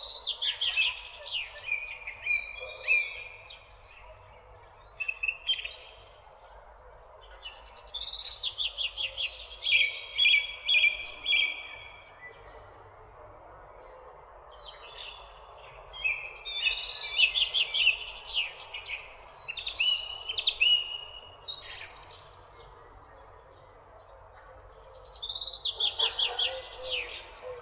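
A songbird singing repeated phrases of quick, downward-sweeping chirps, each phrase a few seconds long and coming about every eight seconds, over a steady background hiss.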